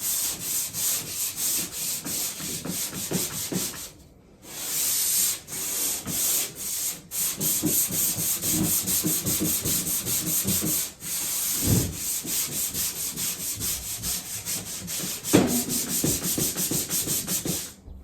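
Hand-sanding a drywall patch with 100-grit sandpaper: quick back-and-forth scraping strokes, a few a second, with a short break about four seconds in and brief pauses later, stopping just before the end.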